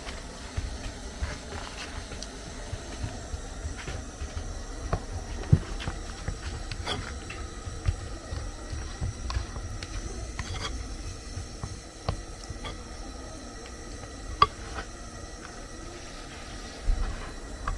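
Cooking sounds: a low steady rumble and faint hiss, with scattered sharp clicks and pops, a few of them louder.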